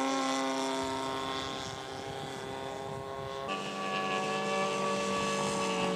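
Engine of a radio-controlled scale model propeller airplane running steadily in flight. The pitch drops abruptly about halfway through.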